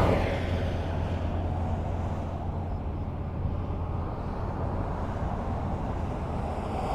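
Highway traffic: a vehicle that has just gone past fades away at the start, over a steady low rumble of traffic, and another vehicle comes closer near the end, growing louder.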